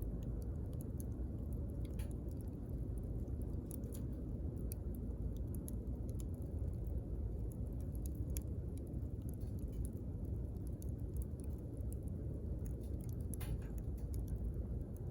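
Wood campfire crackling: scattered sharp pops and snaps over a steady low rush.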